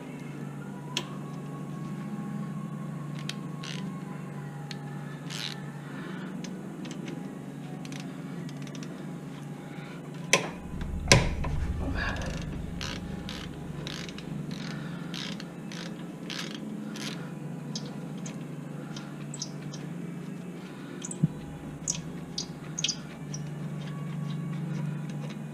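Hand ratchet clicking in short, irregular strokes as the 12 mm bolts on the back of a rear brake caliper are worked loose, with two loud knocks about ten seconds in. A steady low hum runs underneath.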